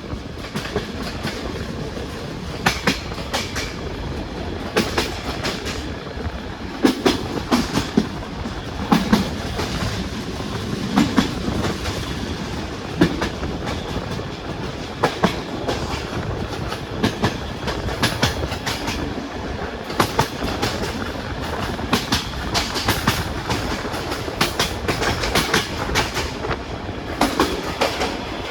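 Passenger train wheels running on the track, heard from aboard the coach: a steady rumble with clusters of sharp clicks about every two seconds as the wheels pass over rail joints.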